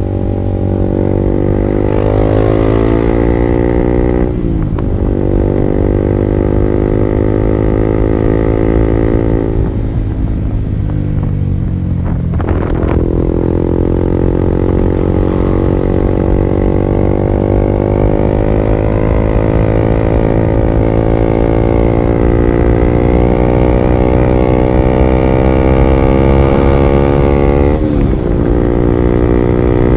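Honda CB150R's single-cylinder engine through an R9 Alpha Series aftermarket exhaust, riding through the gears. The pitch climbs, drops sharply at a shift about four seconds in, and climbs again. It sags around ten seconds in, then rises slowly for a long stretch, with another shift near the end.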